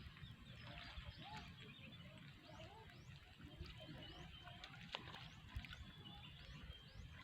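Faint birds chirping over a low, uneven rumble of outdoor background noise.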